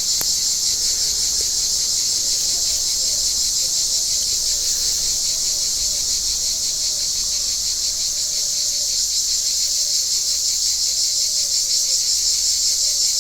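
Cicadas in full chorus: a steady, high-pitched, shrill buzzing with a fast pulsing texture.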